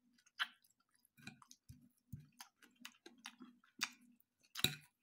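Faint chewing with scattered soft clicks, and a metal fork clicking against a ceramic plate near the end.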